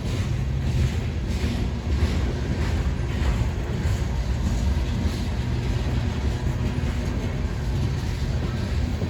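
A freight train rolling past: a steady low rumble, with wheels clicking over the rail joints about twice a second in the first half.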